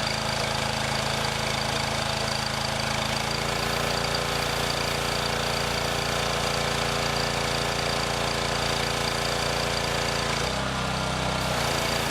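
Pressure washer running steadily, a constant mechanical hum whose tone shifts briefly near the end.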